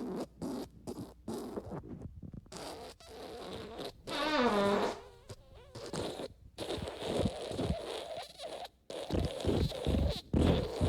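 Fart sound effects one after another: short sputtering farts with brief gaps, the loudest a longer squeaky one about four seconds in that falls in pitch, and a quick low rattling one near the end.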